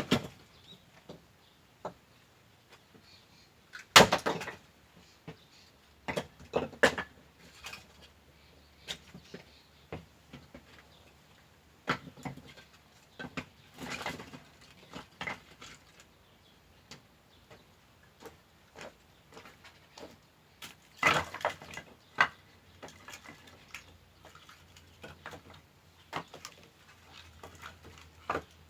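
Firewood being chopped by hand: a few sharp strikes, about four seconds in and again about twenty-one seconds in, with lighter knocks and clatter of wood pieces in between.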